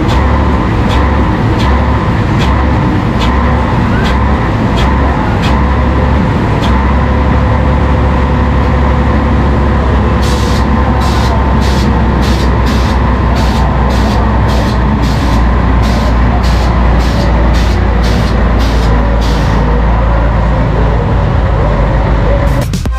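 Scania 113H truck's 11-litre inline-six diesel running with a steady deep note. A regular light ticking sits over it, about twice a second in the middle stretch.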